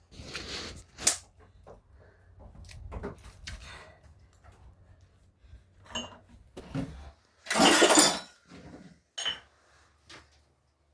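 Scattered knocks and clinks of household objects being handled, with a louder rush of noise lasting under a second about seven and a half seconds in.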